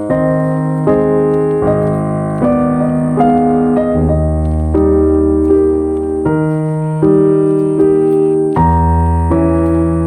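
Background piano music: slow, calm chords that change about every three-quarters of a second.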